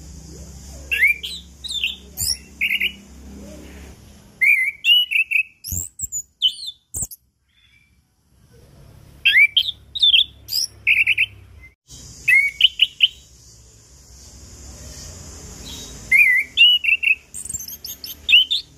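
Orange-headed thrush singing in bursts of quick, varied whistled phrases with short pauses between them. A steady high hiss comes and goes behind the song, and there are two sharp clicks at about six and seven seconds.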